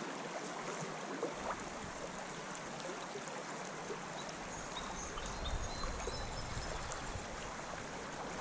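Steady rush of flowing water from a shallow trout stream, with a low rumble joining about a second in.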